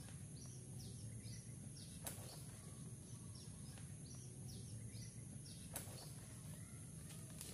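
Faint outdoor ambience: a bird repeating short, falling chirps over and over, over a steady high-pitched note and a low hum. Two light clicks, about two seconds and about six seconds in.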